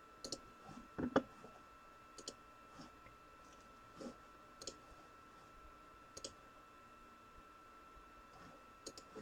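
Faint, scattered sharp clicks and light taps, about a second or two apart, with a steady faint high-pitched electrical hum underneath.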